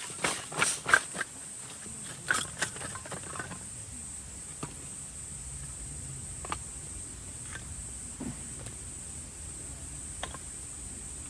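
A quick run of knocks and clicks in the first three seconds or so, then a few scattered single clicks, over a steady high-pitched hiss.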